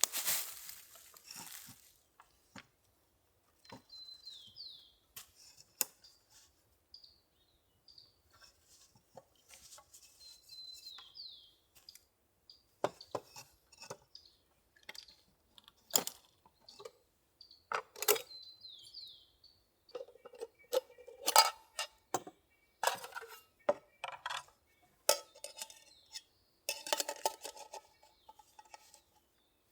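Scattered clinks and knocks of metal camp cookware being handled, getting busier and louder in the second half. A bird gives a short high whistled call three times.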